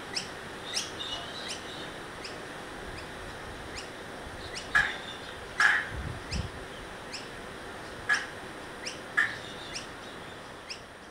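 Small birds chirping: a scattered series of short, sharp chirps over a steady hiss, with a couple of low thuds about six seconds in.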